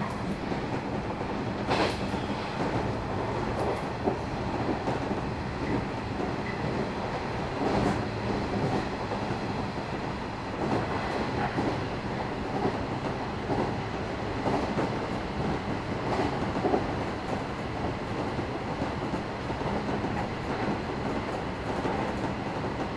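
Running noise inside a JR 113-series electric train's KuHa 111 car under way: a steady rumble of wheels on rail, with an occasional clack as the wheels cross rail joints.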